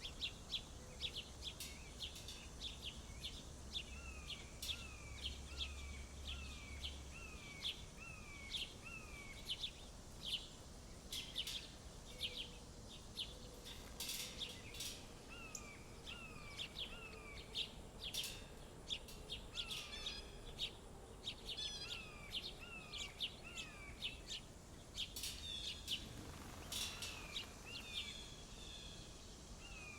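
Several songbirds chirping at a feeder: a steady scatter of short high chirps, with runs of quick, repeated falling whistled notes. A faint low hum stops several seconds in.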